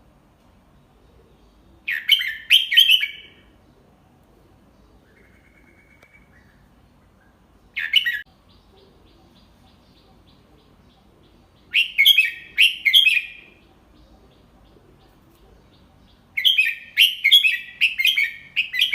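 Red-whiskered bulbul singing short, clear phrases of a few notes each, repeated four times with pauses of several seconds between them. This is a model song for teaching young bulbuls a 'double-three' song pattern.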